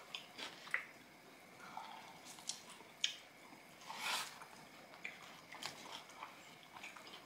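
Close-miked chewing and biting of crispy sauce-coated fried chicken: faint wet chewing broken by short sharp crunches, the sharpest about three seconds in.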